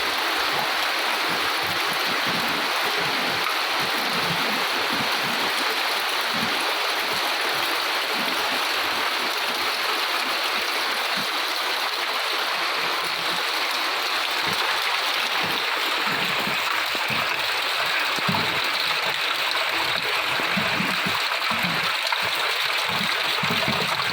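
Steady rain falling: a dense, even hiss with irregular small splashes of drops underneath.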